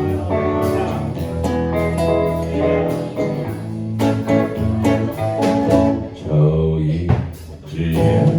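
Acoustic and electric guitars playing an improvised jam over a steady bass line, with sharp plucked and strummed attacks. The playing thins out briefly about seven seconds in.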